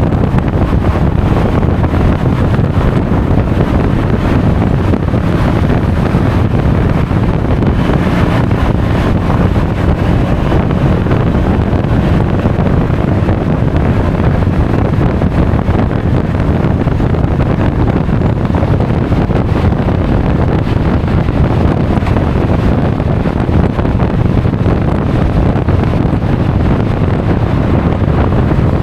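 Steady, loud wind buffeting on an action camera's microphone while riding a Honda Forza 350 scooter at speed, a rushing roar heaviest in the low end.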